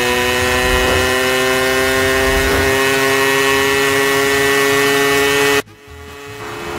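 Cartoon motorcycle engine sound effect running at high revs, a steady high-pitched drone that holds one pitch and cuts off suddenly about five and a half seconds in.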